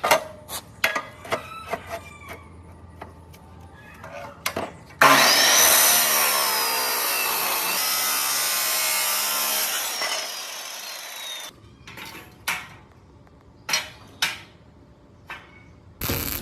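Workshop work on metal or wood: scattered knocks and taps, then about five seconds of loud power-tool cutting with a high whine that dips and recovers before winding down, then more knocks.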